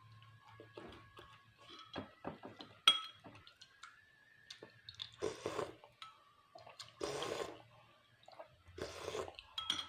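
Close-miked eating sounds: wet mouth clicks and chewing, with three longer noisy sounds of about half a second each in the second half.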